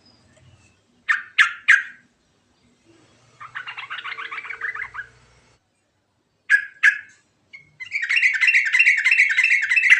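Yellow-vented bulbul (trucuk) singing: three sharp notes, then a short fast chattering run, two more sharp notes, and from about eight seconds in a long rapid rolling run of repeated notes.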